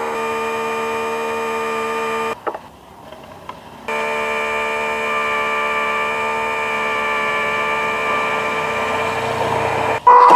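A steady electronic buzzing tone of one unchanging pitch sounds for about two seconds, breaks off, then resumes for about six seconds; a short, louder, higher beep follows near the end.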